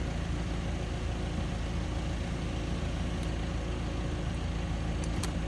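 Audi A6 engine idling steadily, heard from inside the car's cabin, with a few light clicks in the second half.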